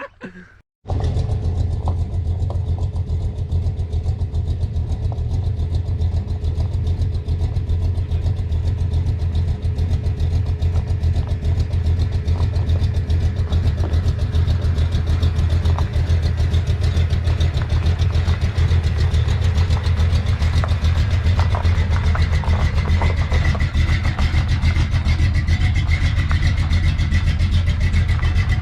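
A 1972 Chevrolet C10 pickup's engine running steadily with a strong, even low note, as on a drive. It comes in suddenly after a moment of silence just under a second in.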